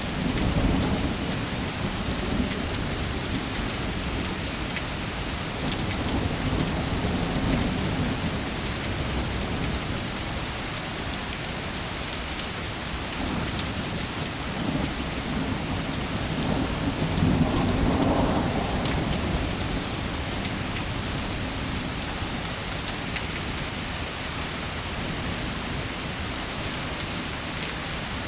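Steady heavy rain hissing, with low rolling thunder rumbling at the start and again for several seconds past the middle.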